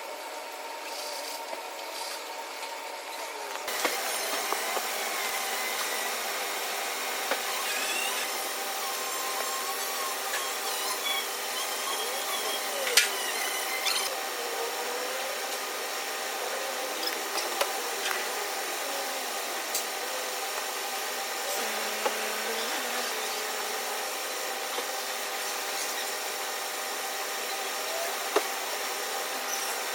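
Power tool running with rubbing and scraping, stepping up in loudness about four seconds in, with scattered squeaks and clicks.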